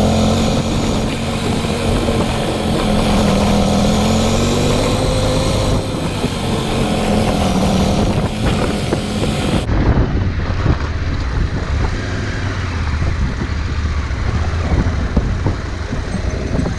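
Motorcycle engine pulling at low speed, its pitch rising and falling, with wind noise on the microphone. The high hiss drops away suddenly about ten seconds in.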